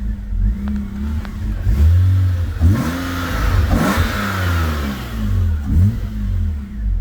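BMW E39 528i straight-six engine idling, then revved up and down several times from about two and a half seconds in. The engine is still cold and has a rough idle.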